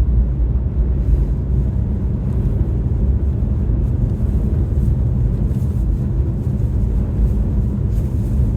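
Car driving on a snowy road: a steady low rumble of engine, tyre and wind noise.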